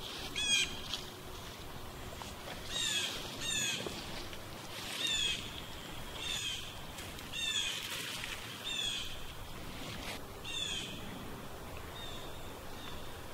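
A songbird repeating short phrases of quick, downward-sliding chirps about every one to two seconds, over a faint outdoor hiss.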